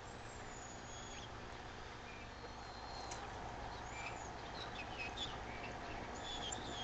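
Birds chirping: scattered short, high chirps and thin whistles over a steady hiss, growing busier toward the end.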